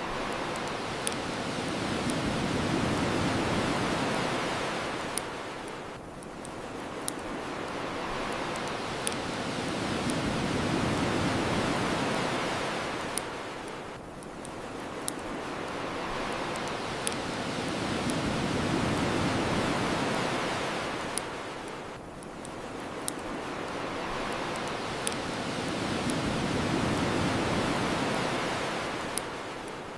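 Ocean waves washing up a shore, swelling and ebbing about every eight seconds, with the sharp pops of a crackling bonfire about every two seconds.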